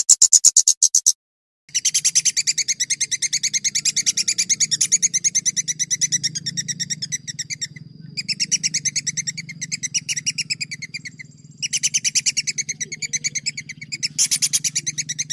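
Songbird giving a long, rapid trill of repeated sharp high notes, about ten a second, the 'long roll' used as tutor song for competition birds. It breaks off abruptly a few times where recordings are spliced, over a low steady hum.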